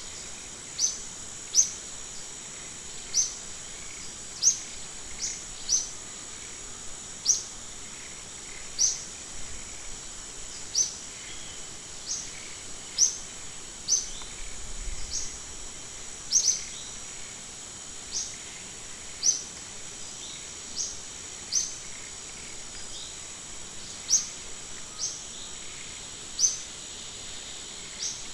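A bird giving short, sharp rising chirps, roughly one a second at uneven spacing, over a steady high-pitched insect drone.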